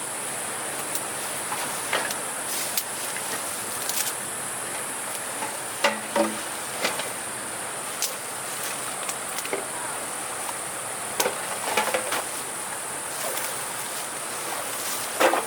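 Steady high-pitched insect buzzing throughout, with irregular knocks and clatters scattered through it, the loudest about six seconds in and near the end.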